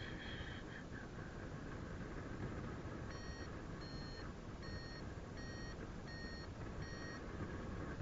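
Paragliding variometer beeping six times, short high beeps about three-quarters of a second apart: the vario's climb tone, signalling that the glider is rising in lift. Steady wind rushing over the microphone underneath.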